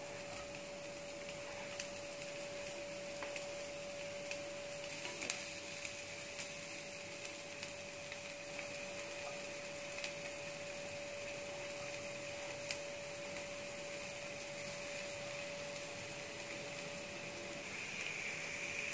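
Chopped onion sizzling steadily in hot oil in a pan, with scattered small ticks and pops. A steady hum runs underneath and stops near the end.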